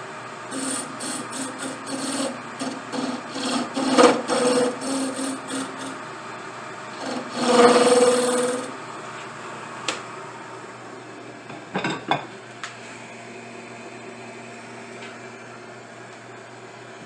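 Short rasping strokes of hand filing or sanding on a pipe part, about two a second for several seconds, then one longer stroke. After that only a faint steady hum with a few light clicks.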